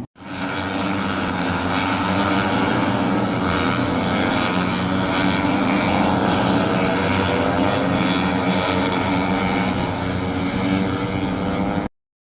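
A loud, steady engine drone with a hissing wash over it. It cuts off abruptly near the end.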